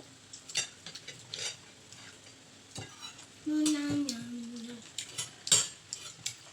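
Cutlery clicking and clinking against a plate during eating, in scattered sharp knocks. About three and a half seconds in, a short hummed note of just over a second steps down in pitch.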